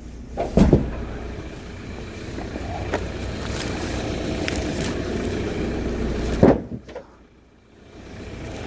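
Steady car noise with two heavy thumps, one about half a second in and another about six and a half seconds in; the noise drops away briefly near the end.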